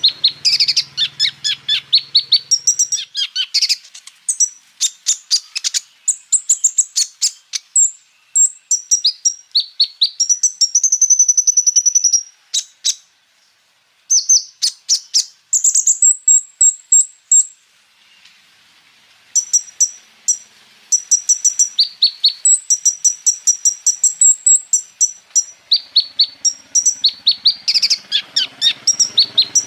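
A kolibri ninja sunbird (van Hasselt's sunbird) singing: rapid runs of high, sharp chirps and trills, with a longer sustained trill near the middle and two brief pauses.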